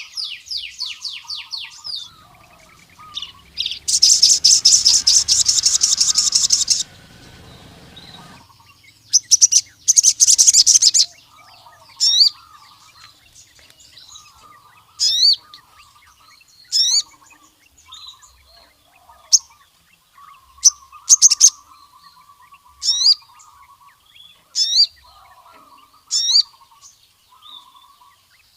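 A male sogon (crimson sunbird) singing. It gives two loud, rapid, high-pitched trills early on, then a run of sharp, high single chirps about every one and a half to two seconds. Faint lower twittering runs beneath.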